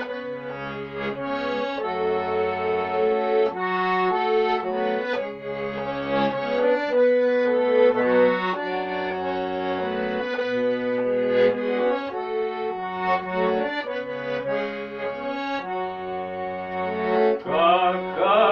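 Accordion playing the instrumental introduction to a song: sustained chords over changing bass notes, with a melody on top. A man's voice begins singing right at the end.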